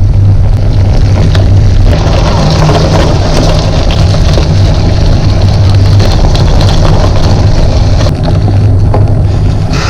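Wind buffeting the microphone of a camera carried on a moving bicycle: a loud, steady rumble.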